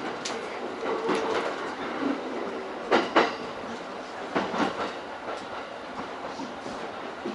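E231-series electric commuter train running along the line, heard from inside the leading car: a steady running rumble with the wheels clacking over rail joints in quick pairs a few times.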